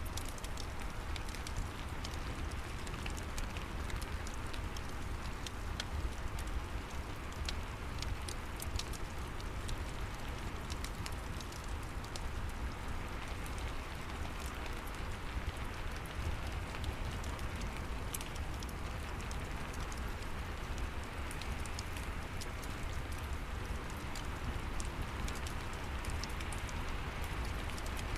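Steady rain mixed with a crackling fireplace: an even hiss with many small, sharp pops scattered throughout.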